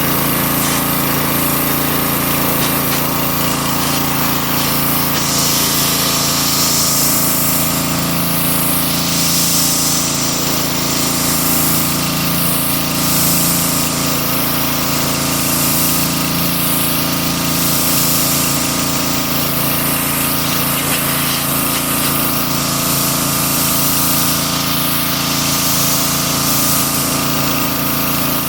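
Pressure washer running steadily, its motor-driven pump humming under a hissing water spray that swells and fades as the jet sweeps about.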